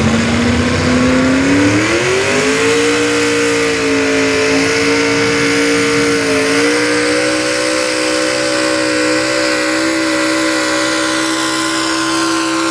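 Super stock two-wheel-drive pulling truck's engine revving up over the first couple of seconds and then held at high revs under load as it pulls the sled, with a brief dip about six seconds in.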